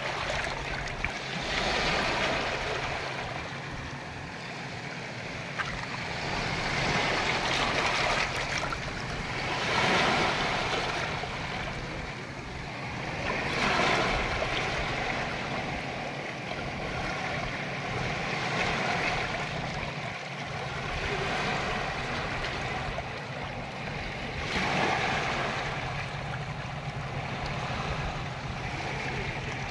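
Ocean waves breaking and washing in, the surf noise swelling and fading every few seconds.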